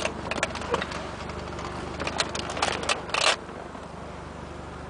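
Mazda RX-7's twin-turbo 13B rotary engine idling with a steady low hum, heard inside the cabin. Over it, a cluster of sharp clicks and scrapes for about the first three seconds, then it stops.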